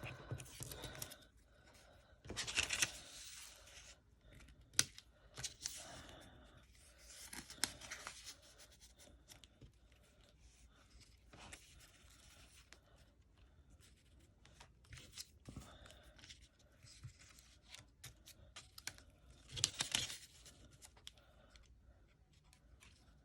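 Paper pieces being handled on a work surface: short, scattered rustles and scrapes of paper with quiet gaps between. The louder rustles come about six times.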